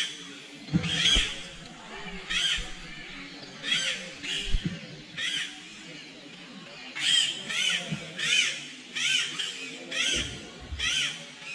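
A bird calling over and over: short calls, each rising then falling in pitch, about one a second, coming closer together in the second half.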